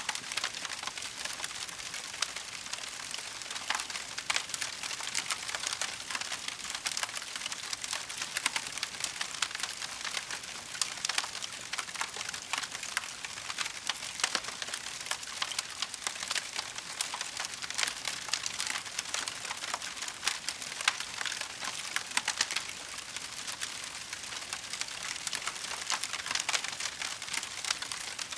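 Wood fire burning and crackling, a steady run of small pops and snaps over a constant hiss.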